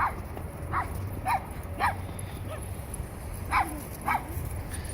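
A dog barking in short, sharp barks, about seven of them at irregular intervals, over a steady low rumble.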